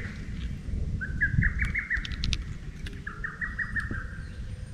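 A songbird singing twice, each phrase a quick run of short repeated notes, over a low rumble.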